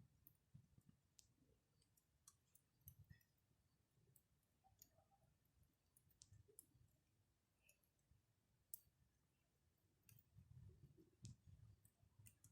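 Campfire crackling faintly: scattered, irregular small pops and snaps.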